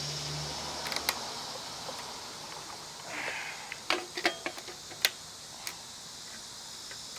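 A few sharp clicks and taps of hand work as the fuel line is fitted to the small engine's carburetor, one pair about a second in and a quick cluster around four to five seconds in, over a steady faint hiss.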